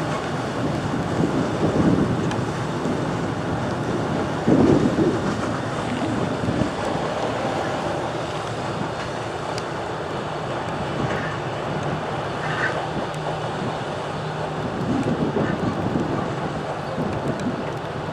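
Wind buffeting the microphone in blowing rain, swelling in gusts about two seconds and four and a half seconds in, over the steady low running of a GE 80-ton centre-cab diesel switcher.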